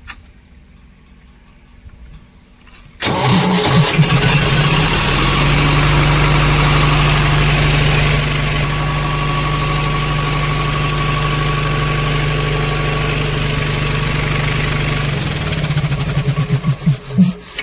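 Cement bulker truck's diesel engine started by its freshly repaired starter motor: it fires about three seconds in and runs steadily at idle, the starter now cranking properly after the no-start. Near the end it is shut off and runs down in a few uneven shudders.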